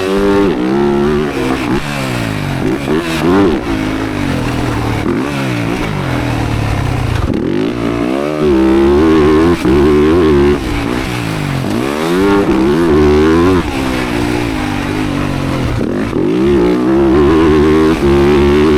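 Motocross dirt bike engine revving up and dropping off again and again as it accelerates and backs off.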